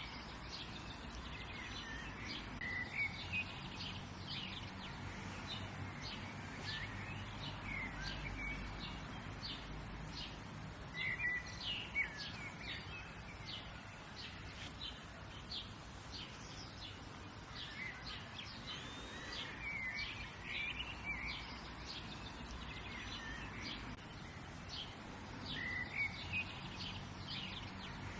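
Several birds calling and chirping outdoors: many short, high chirps and repeated sweeping calls come at intervals, over a faint steady background hum.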